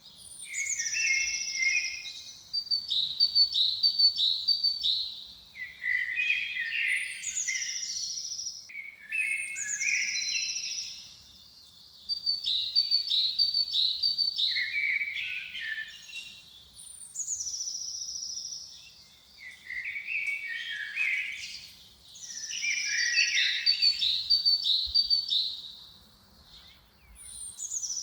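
A songbird singing the same elaborate phrase over and over, every few seconds with short pauses between: each phrase opens with a high falling whistle and a held note, then breaks into quick lower notes and trills.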